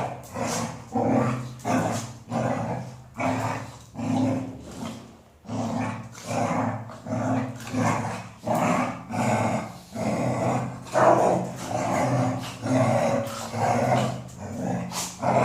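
Golden retriever making low, growl-like vocal sounds in short repeated bursts, a little over one a second, with a brief pause about five seconds in.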